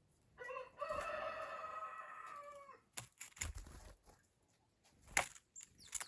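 A rooster crowing once, a single call of about two and a half seconds that drops away at the end, followed by a few short knocks.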